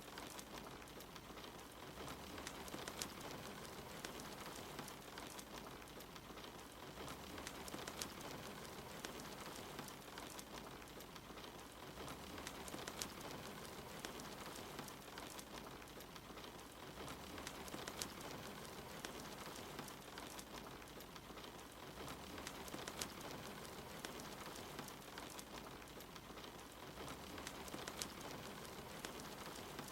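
Steady rain hiss with a fireplace crackling over it, scattered sharp pops, in a mix that repeats about every five seconds.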